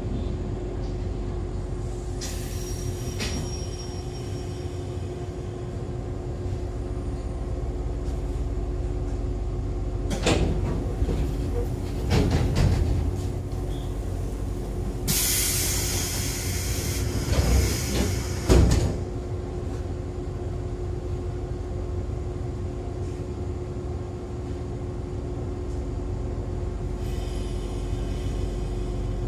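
Interior running sound of an Echizen Railway MC6101-series electric railcar (MC6106, with MT54 DC series-wound traction motors and 82:17 gearing) cruising between stations: a steady rumble with a constant drive hum. Twice in the middle, louder stretches of rattling, rushing noise break through. This car is the one the uploader marks as an 'abnormal-noise car'.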